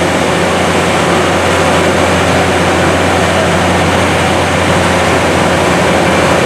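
Railway locomotive running steadily at a standstill, a loud, even hum with a low drone and no change in pitch.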